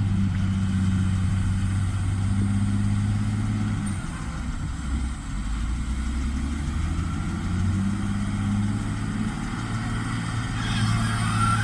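Heavy diesel engine of a log-loading machine running steadily. Its pitch drops about four seconds in and rises back a few seconds later as the load changes, with some rougher, higher-pitched noise near the end.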